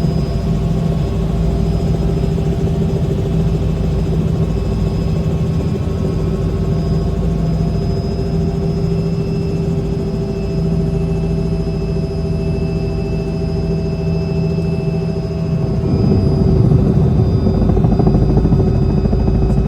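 Helicopter running steadily: a continuous low rumble with a steady whine above it. About sixteen seconds in it grows louder and rougher.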